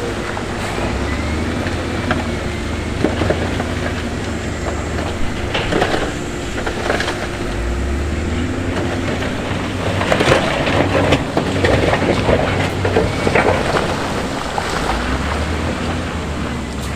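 Heavy diesel construction machinery running steadily while loose stone crunches and clatters, the clatter busiest from about ten seconds in.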